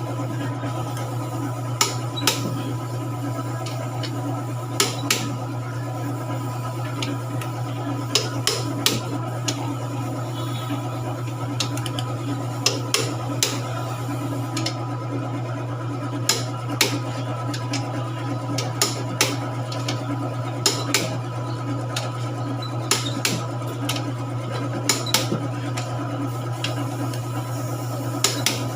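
Metal tools and engine parts clinking and tapping: sharp short knocks, often in pairs, every second or two, over a steady low hum.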